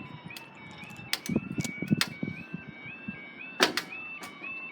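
Level crossing warning alarm sounding a repeating two-tone warble, stepping between a lower and a higher note about twice a second, with a few sharp clicks over it.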